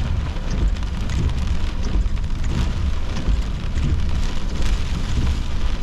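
Heavy rain pelting a car's roof and windows, heard from inside the cabin as a dense, steady patter with a low rumble underneath.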